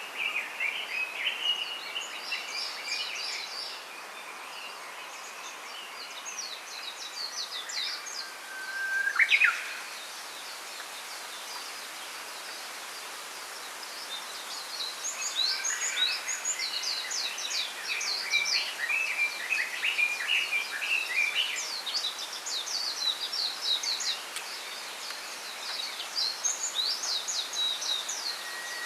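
Small songbirds chirping and twittering in repeated bouts over a steady background hiss. About nine seconds in comes a single loud call that sweeps sharply upward.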